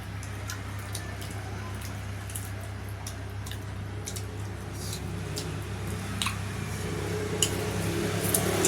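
Wet, squishy eating sounds with scattered soft clicks as dhido and spicy chicken curry are eaten by hand, over a steady low hum. A low sound swells over the last couple of seconds.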